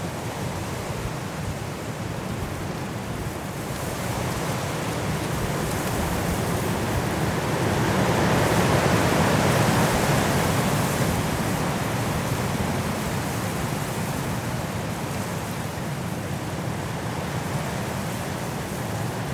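Strong wind blowing through trees in a snowstorm, a continuous rush that swells to its strongest about halfway through and then eases a little.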